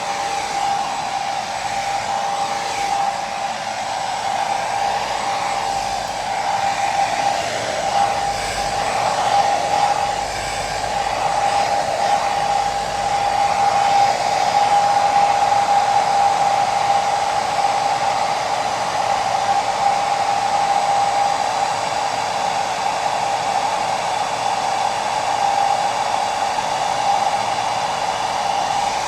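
Hair dryer running continuously: a steady rush of blown air with a constant whine of the motor and fan.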